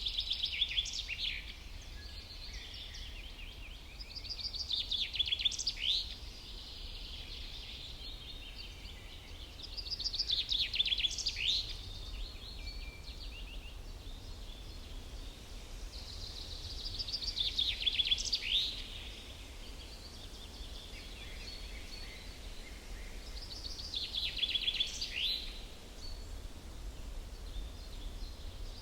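A songbird singing the same short song over and over, a rapid run of high notes ending in a quick downward sweep, five times about six seconds apart, over a low steady rumble.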